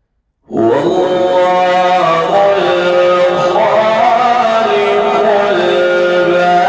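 Male Quran reciter chanting in a melodic tajweed style. The voice comes in about half a second in and holds long drawn-out notes that step between pitches.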